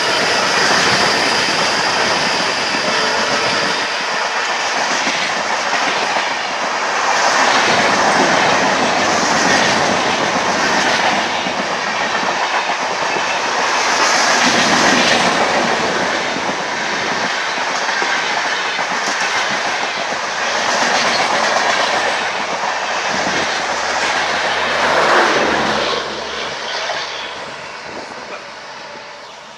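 A train running past on the track, wheels clattering over rail joints as the coaches go by, the sound swelling and easing as they pass and fading away over the last few seconds as the train draws off.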